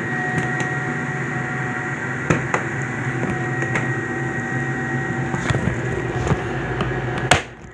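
Gas furnace's blower and draft-inducer motors running steadily, a constant hum with a thin whine, with a few light clicks. Near the end a sharp knock, after which the sound drops away sharply.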